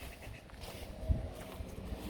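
Footsteps of a walker on an outdoor track, with a dull low thump about a second in.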